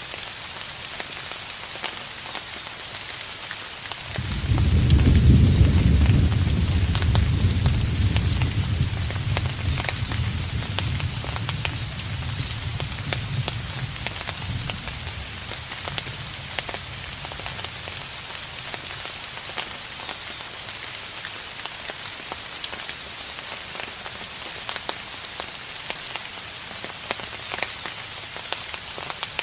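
Steady rain falling on a surface, with individual drops ticking. About four seconds in, a distant thunderclap sets off a deep low rumble that slowly fades away over roughly ten seconds.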